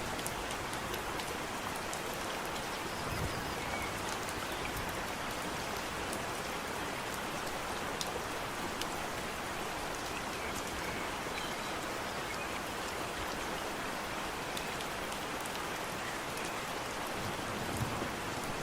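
Steady rain falling, with scattered sharp drop ticks. A brief low thump comes about three seconds in and another near the end.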